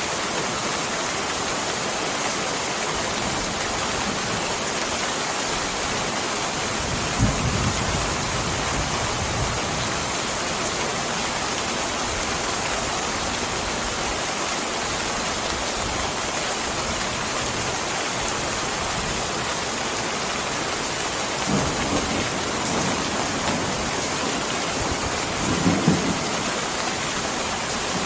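Steady, even rain, with low rumbles of distant thunder about a quarter of the way in and twice more near the end.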